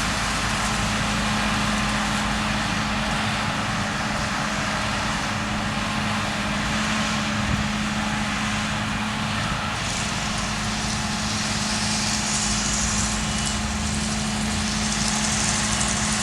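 Claas Lexion 7600 combine harvester running steadily: a constant engine drone with a steady hum underneath.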